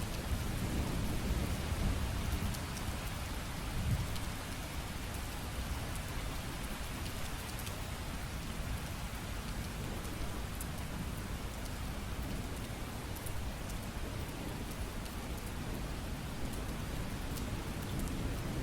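Steady rain falling, an even hiss with scattered drop ticks. A low rumble of distant thunder runs through the first few seconds, swells briefly about four seconds in, then dies away.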